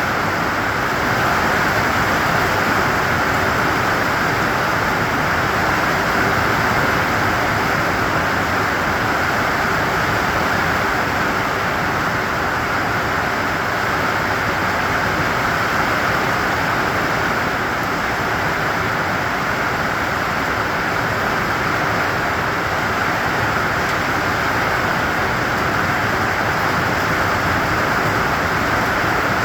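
Steady rain, heard as an even, unbroken hiss with no single drops standing out.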